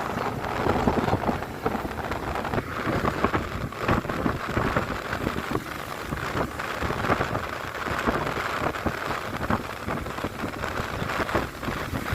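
Wind rushing and buffeting over the microphone on a moving motorcycle, a dense, constant rush full of rapid crackles.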